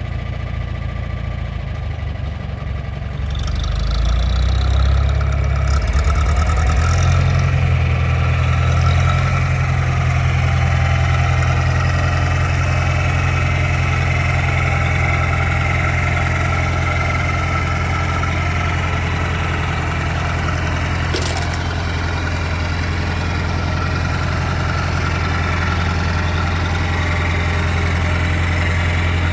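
John Deere 3020 tractor engine running at idle, then picking up speed about three to seven seconds in and holding a steady, higher running speed for the rest of the time.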